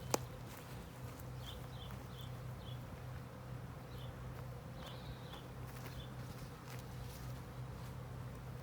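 Honeybees buzzing in a steady hum around an open hive, with one sharp click just after the start and a few faint, short high chirps.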